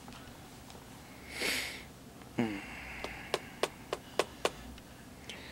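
A man's sniff, then a short wordless vocal sound, followed by five quick, evenly spaced clicks.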